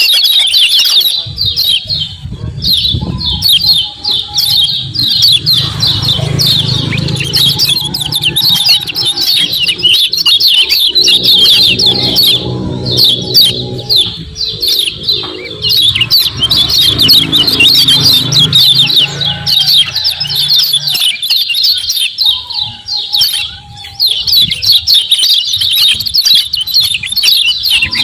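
Kecial kuning white-eye calling in a dense, rapid stream of short, high 'ciak ciak' chirps. A low rumble runs under the chirping through the middle part.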